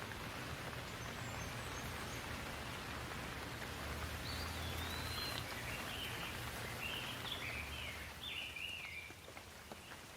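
Steady rain falling, thinning a little near the end, with a bird chirping a quick series of short notes in the middle.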